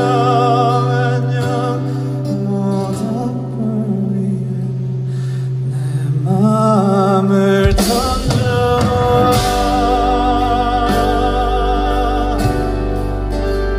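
Live band music: a long wordless held vocal note with vibrato over a sustained low chord, then about eight seconds in drums and bass come in and the full band plays on.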